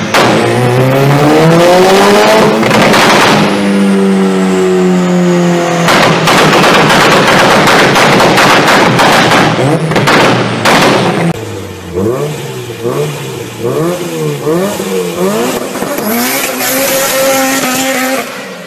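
Mitsubishi Lancer Evolution's turbocharged 4G63 four-cylinder engine revved hard on a dyno: the revs climb and hold high, with loud anti-lag bangs from the exhaust. Later the throttle is blipped quickly up and down several times.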